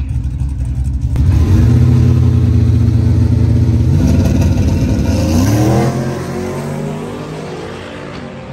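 Drag-racing truck's engine jumping to a loud, steady note about a second in, then climbing in pitch as it accelerates and fading as it pulls away.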